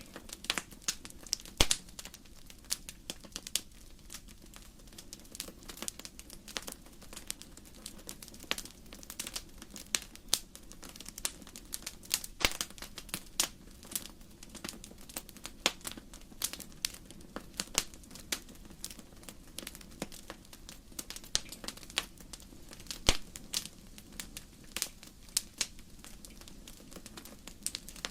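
Wood fire crackling in a fireplace: irregular sharp pops and snaps of burning logs over a soft steady hiss.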